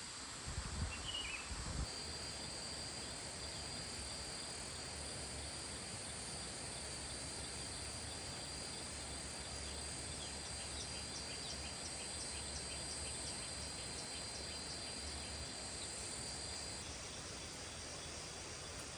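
Insects droning in a steady high chorus, with a faster rhythmic ticking joining in for several seconds midway. A few low thumps and a short chirp come near the start. The high drone cuts off near the end.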